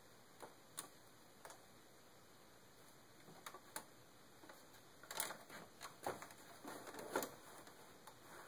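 Faint, irregular clicks and taps, a few at first and then coming more thickly in the second half.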